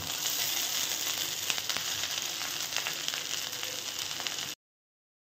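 Spiced rice sizzling in a hot kadai, a steady frying hiss with scattered crackles, cutting off suddenly about four and a half seconds in.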